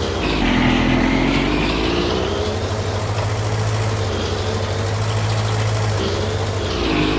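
John Deere garden tractor's engine running steadily while mowing, its pitch sagging and picking back up twice: once about a second in and again near the end.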